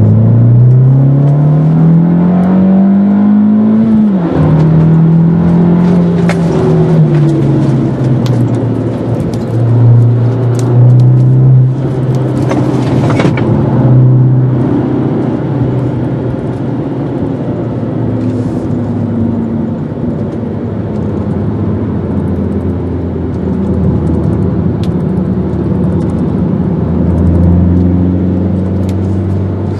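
Fiat Grande Punto Abarth's 1.4-litre turbocharged four-cylinder engine under hard acceleration, heard from inside the cabin: it revs up for about four seconds, drops sharply at a gear change, then runs on at varying revs through the corners.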